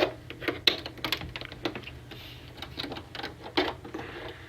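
A run of irregular light clicks and taps from hands working at a computer, several a second, over a faint low hum.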